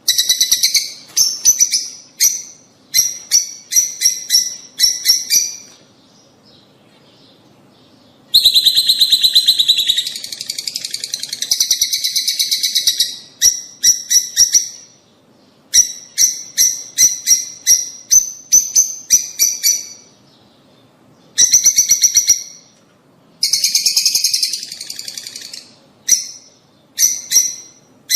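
Lovebirds calling in rapid runs of shrill chirps, in bursts a second or two long with short pauses between them, and a few longer stretches of dense, continuous chatter.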